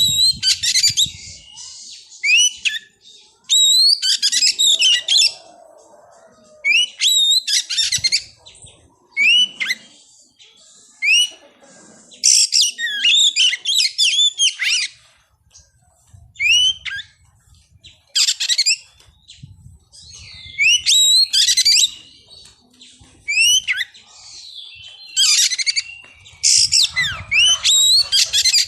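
Oriental magpie-robin (kacer) singing: repeated bursts of varied, high-pitched whistled phrases and chirps, each a second or two long with short pauses between.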